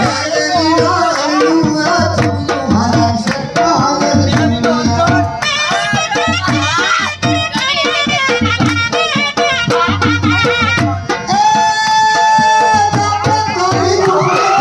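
Gujarati folk music: a sarnai (shehnai-type double-reed pipe) playing a bending, ornamented melody over a steady dhol beat, holding one long note about eleven seconds in.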